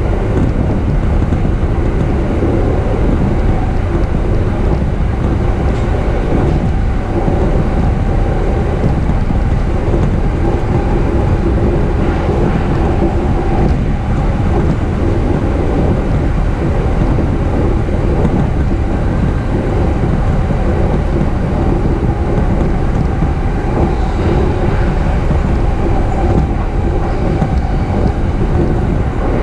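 JR East E233 series electric commuter train running, heard from inside the car: a steady rumble and rail noise with a faint steady hum.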